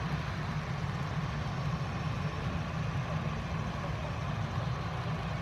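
Steady low engine rumble at idle, unchanging throughout.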